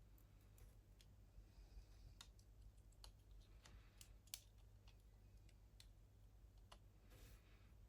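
Near silence broken by faint, scattered clicks and taps of small plastic model-kit parts and tools being handled, one sharper click about four seconds in and a brief soft rustle near the end.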